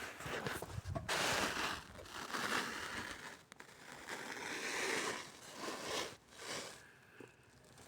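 Irregular rustling and crunching handling noises, loudest in a few surges between about one and six seconds in.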